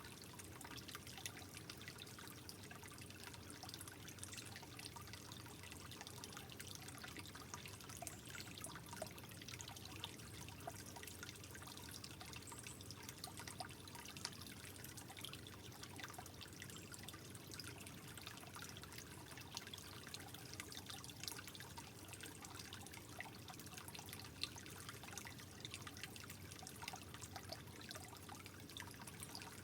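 Soft, steady trickling water with many small drips and splashes scattered through it.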